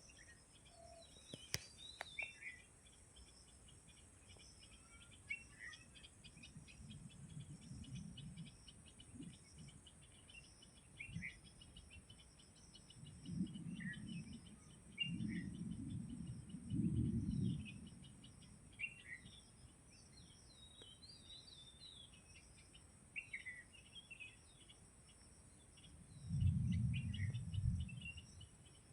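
Faint, short bird chirps and tweets at irregular intervals over a steady high drone of insects. Low rumbles come and go three times.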